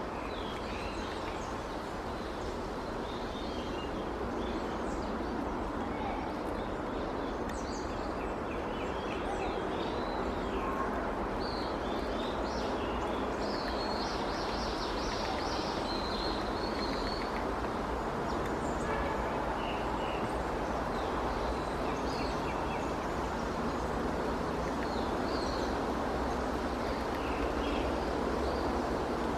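Small birds chirping and calling in short scattered notes over a steady background rumble.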